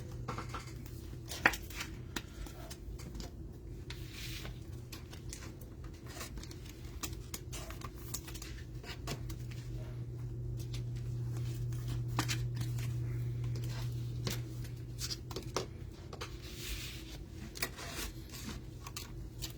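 Trading cards and their packaging being handled: scattered small clicks, slides and rustles of cards and wrappers, over a steady low hum that grows slightly louder in the middle.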